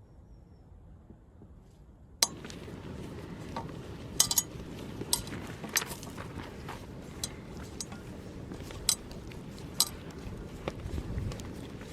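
Dishes and cutlery clinking: about a dozen sharp, bright clinks at irregular intervals over a steady low background, starting suddenly about two seconds in after a quieter stretch.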